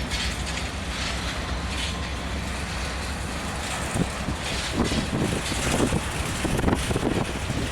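Freight train rolling past: a steady rumble of wheels on rail, with irregular clunks and rattles from the cars growing louder about halfway through.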